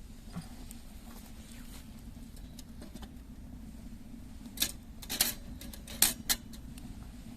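A wood fire in an outdoor chimney fireplace giving a few sharp pops and snaps, four in quick succession in the second half, over a steady low hum.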